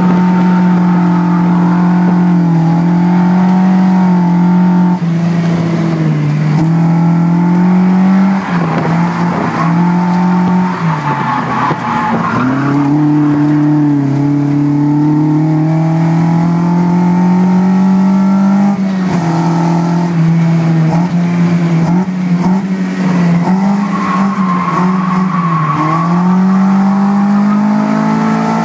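Toyota AE86's swapped Beams 3S-GE four-cylinder engine running hard, heard from inside the cabin, its pitch dropping sharply about four times and climbing back as the throttle is lifted and reapplied while drifting through the corners, with tyres squealing at times.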